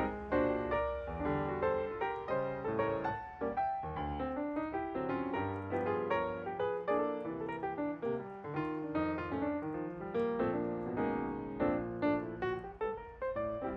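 Background music: piano playing a steady run of notes and chords over a bass line.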